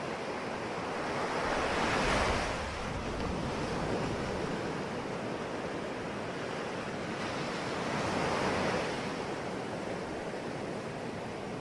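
Sea waves breaking on a shore, a steady wash of surf that swells twice, about two seconds in and again past eight seconds.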